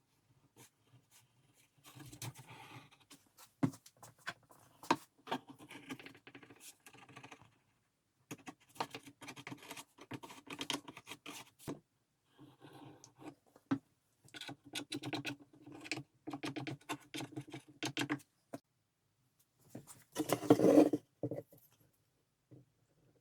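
Irregular bursts of scratching and scraping with small sharp knocks from hand work on the old wooden cabinet, stopping and starting, with the loudest burst near the end.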